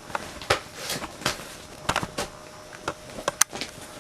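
Wrestlers grappling in the ring: a scatter of sharp knocks and thuds from bodies and feet striking the ring, about half a dozen over a few seconds.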